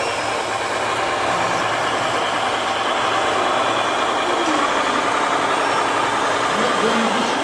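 A radio-controlled 1/14-scale model truck running, giving a steady engine-like drone with a faint held whine.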